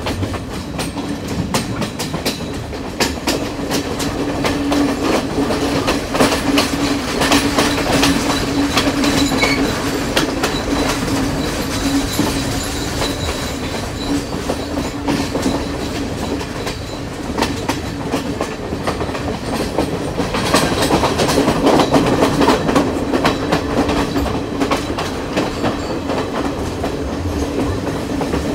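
Passenger train running at speed, heard from on board: a steady rumbling roar with a low drone and wheels clacking over the rail joints. It grows louder for a few seconds about twenty seconds in.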